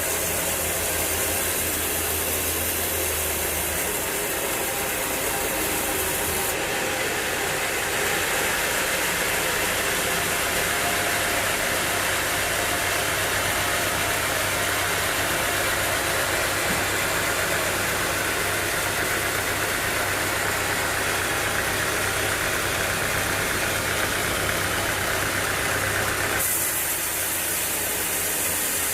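Sawmill machinery running steadily, with an engine note under it. The sound changes abruptly about six seconds in and again near the end.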